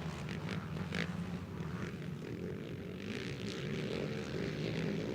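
Engines of a pack of racing ATV quads running together in a steady drone, with brief higher revs now and then.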